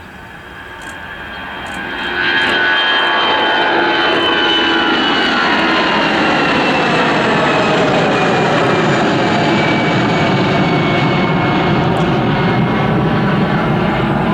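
Airliner's engines passing close by: the noise builds over the first two seconds, then stays loud, with whining engine tones that slowly fall in pitch as the aircraft goes past.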